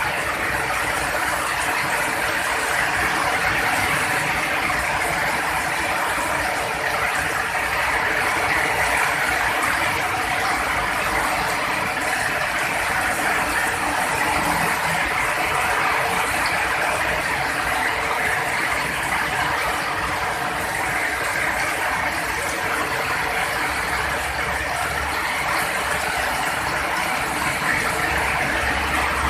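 Heavy rain falling steadily as a dense, even hiss, with a low rumble building near the end.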